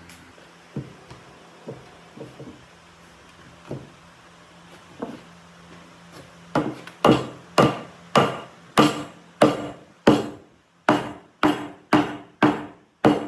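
Hammering on wood: a few light taps, then, about halfway through, a steady run of heavy blows, roughly one every 0.6 seconds, each ringing briefly.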